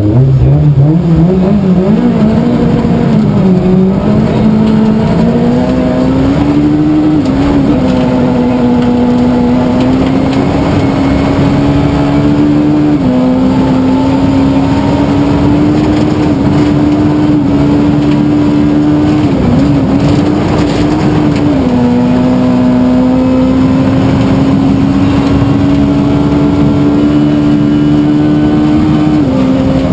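Suzuki Swift rally car's engine pulling hard, its pitch climbing steeply in the first seconds and then held high, dropping suddenly now and then as it shifts gear.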